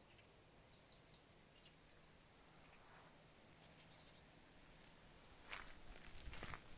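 Quiet outdoor air with faint, short, high chirps from small birds, some single and some in quick little runs. About five and a half seconds in, footsteps start.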